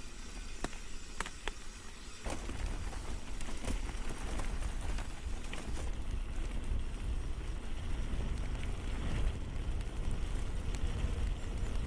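Mountain bike rolling over a rough dirt trail: scattered clicks and rattles from tyres and bike on stones, then from about two seconds in a heavy low rumble of wind and trail noise on the camera microphone.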